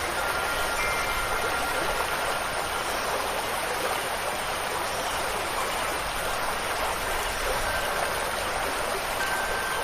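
Steady, even rush of flowing water from a stream.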